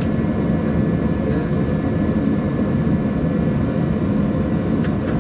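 Steady low rumble of a running machine, with a faint steady tone above it.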